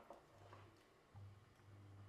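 Near silence: room tone with a faint low hum that comes and goes and a few soft ticks.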